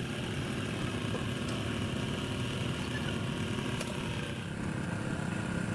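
An engine running steadily, with a slight change in its tone about four seconds in.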